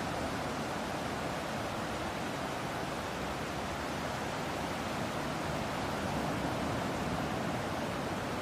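Steady, even rush of ocean surf and breeze, with no distinct swells or breaking waves.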